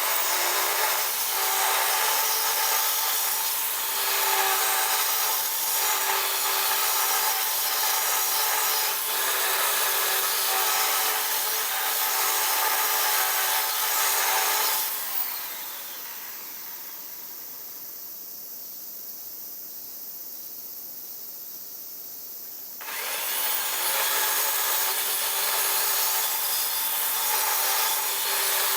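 Handheld power tool cutting or grinding, its motor spinning up and running steadily for about fifteen seconds, stopping, then spinning up and running again after a pause of about eight seconds.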